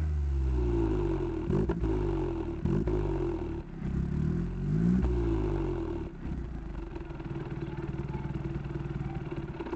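Skoda Fabia Mk1 MPI petrol engine heard through its exhaust, revved repeatedly so the pitch rises and falls about once a second, then settling to a steady idle about six seconds in.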